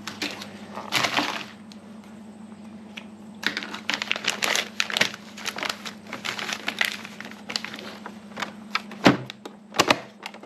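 Plastic vacuum-seal bags and meat cuts being handled and packed: an irregular string of clicks, taps and crinkles over a steady low hum.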